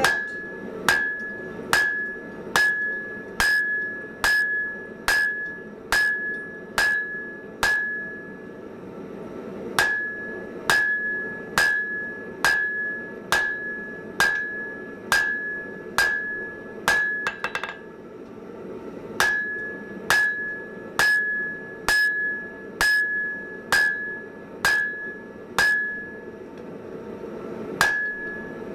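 Hand hammer striking hot mild steel on an anvil, a little faster than one blow a second, in runs of about eight to ten with short pauses between. Each blow rings with a clear high anvil tone. A quick flurry of light taps comes about two-thirds of the way through.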